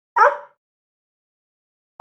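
A single short animal call, about a third of a second long, with an identical call beginning right at the end.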